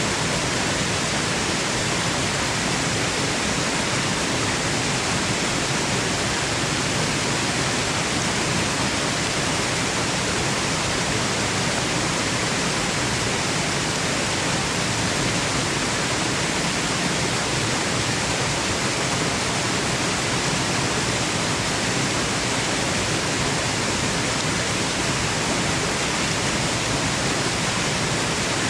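Waterfall: falling water making a steady, unchanging rushing hiss spread evenly from low to high pitch, used as white noise.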